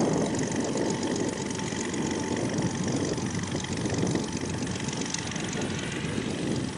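Cessna 172's propeller engine running steadily on the ground.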